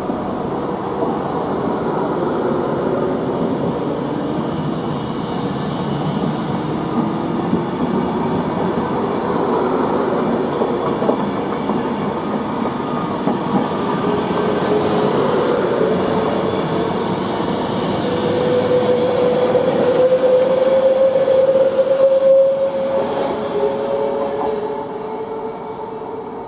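A train in motion: a steady running noise of wheels on track, with a pitched tone rising slowly about two-thirds of the way in.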